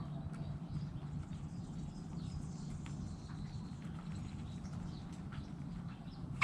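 Backyard chickens, quiet: faint scattered ticks and soft calls over a steady low hum.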